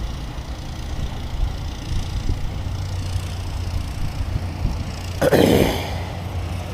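A steady low outdoor rumble. About five seconds in, a short loud rushing noise rises over it.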